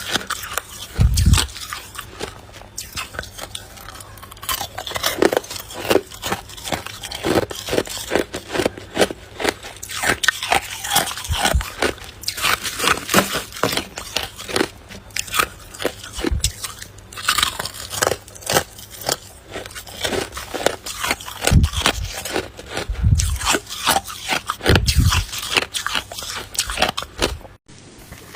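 Ice being bitten and chewed close up: a dense, continuous run of crunches and cracks, with a few low thuds.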